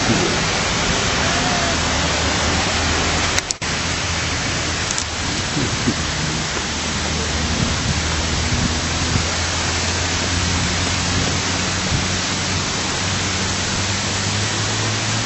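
Steady, loud rush of falling and flowing water, even throughout, with a brief break in the sound about three and a half seconds in.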